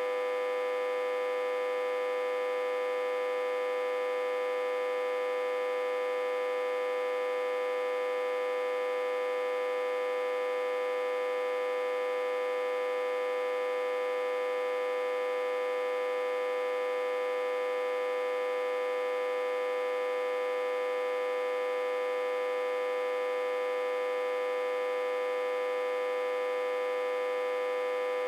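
Autotransformer humming with a steady, high, unchanging tone and many overtones, driven at about 60–80 V while reverse-connected to a step-down transformer.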